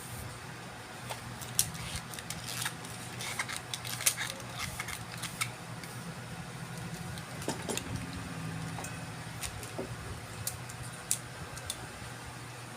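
Scattered light clicks and clinks of small tools and parts being handled on a repair workbench, thickest in the first half, over a steady low hum.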